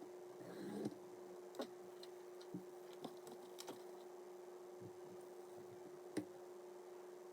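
Desk work with sheets of paper being trimmed for a notebook: a short sliding rustle just under a second in, then a handful of light, sharp clicks and taps spread over the next few seconds, the loudest about six seconds in. A faint steady hum sits underneath.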